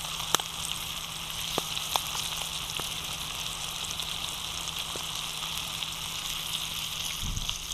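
Battered perch frying in hot oil in a pan over a campfire: a steady sizzle with scattered sharp pops and crackles.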